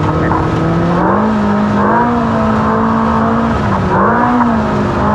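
Race car engine running hard under load, heard from inside the cockpit over steady rumble and wind noise. Its pitch climbs about a second in, dips briefly near four seconds, then picks back up.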